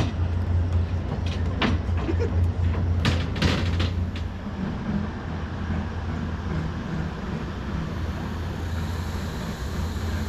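Diesel train's engine running with a steady low rumble, with a few sharp clicks and knocks in the first few seconds.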